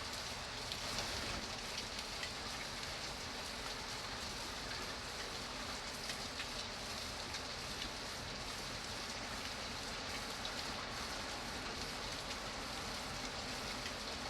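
Steady rain with a dense patter of small drops.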